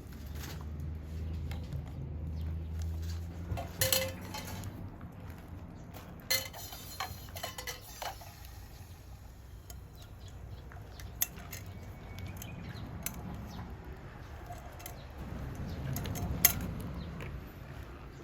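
Metal cookware and utensils being handled, with scattered sharp clinks and knocks: a cluster of them about four seconds in, several more over the next few seconds, and one loud clink near the end.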